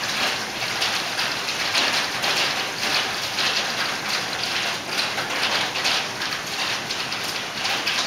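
Pea-size hail falling with rain: a dense, steady patter of countless small hits.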